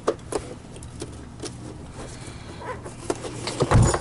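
Light clicks and knocks of plastic parts being handled during disassembly of a vacuum power head's housing, with a louder clatter and thump near the end.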